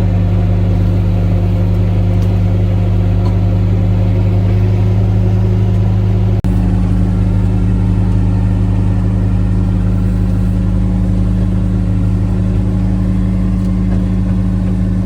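Kubota's engine running steadily under load while it drags a chained log, with a brief break about six seconds in.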